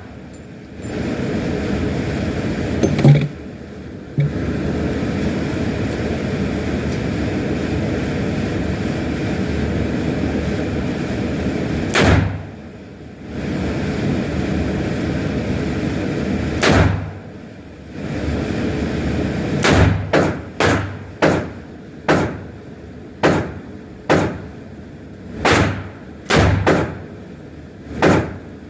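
Handgun shots: two single shots several seconds apart, then a quick string of about eleven, roughly one every 0.7 s. A steady rushing noise fills the gaps between the shots.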